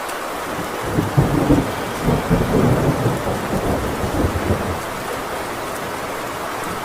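Heavy rain falling steadily on a metal tin roof, with a roll of thunder that builds about a second in, rumbles in several uneven surges and dies away about five seconds in.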